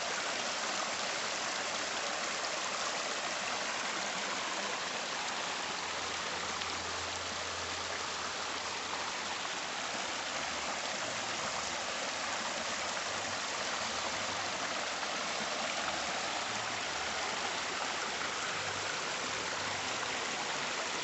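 Water pouring over a waterfall: a steady, unbroken rush.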